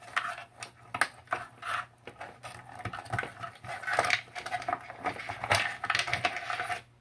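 Plastic parts and charging cables being handled and pulled out of a plastic charging station: irregular clicks, knocks and rattles that stop suddenly near the end.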